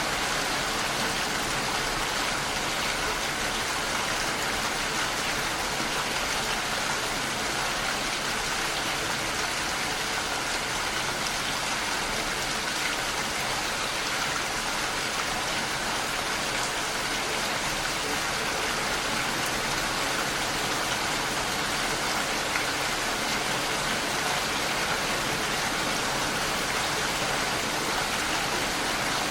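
Steady rain falling, an even hiss of drops with no thunder or breaks.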